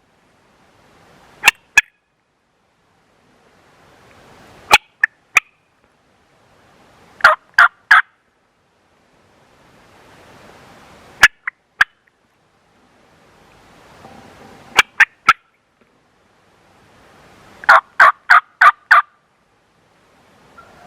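Merriam's wild turkeys gobbling: six loud clusters of sharp, rapid notes, about one every three to four seconds.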